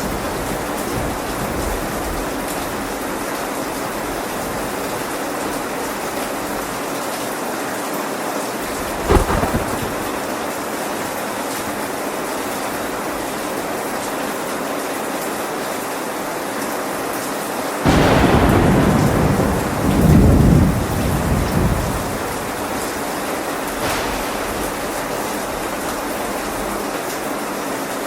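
Steady heavy rain, with a short sharp crack of thunder about a third of the way in. A louder thunderclap breaks suddenly past the halfway point and rumbles deeply for about three seconds before the rain alone returns.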